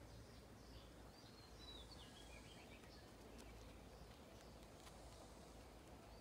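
Near silence: faint outdoor background hiss with a few faint bird chirps, short whistled notes in the first half.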